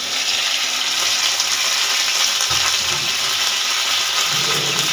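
Freshly cut okra just added to hot oil in a wok, sizzling with a loud, steady frying hiss.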